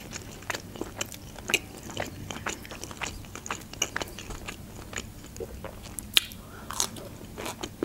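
A person chewing a mouthful of soft Adjarian khachapuri (cheese bread), heard as close, irregular small mouth clicks.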